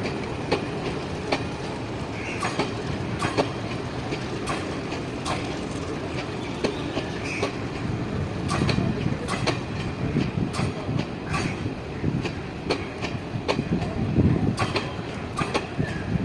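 Passenger train running on the track, its wheels clicking over rail joints at a steady pace, about one to two clicks a second, over a constant low rumble.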